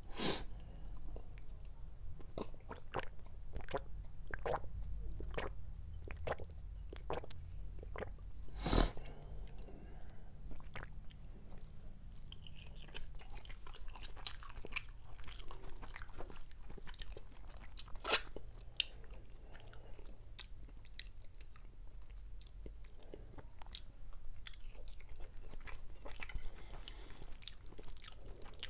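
Close-miked chewing of macaroni, with wet mouth clicks and smacks and a few sharper clicks, over a low steady hum.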